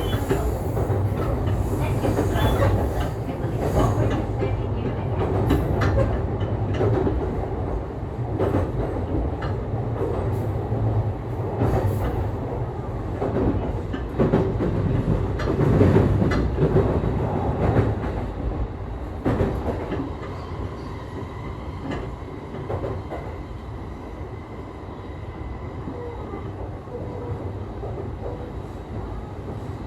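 Running sound inside a JR East E531 series electric train at speed: steady wheel-on-rail rumble with repeated clatter over rail joints and points. It grows quieter in the last third.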